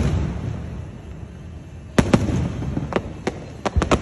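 Aerial fireworks bursting: a rumble from earlier shells fades out, then two sharp bangs come about halfway through, followed by a few more and a quick run of sharp cracks near the end.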